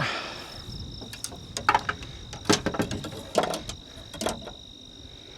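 Irregular clicks and knocks of gear being handled, loudest in the first three seconds, over a steady high insect chirring, typical of crickets.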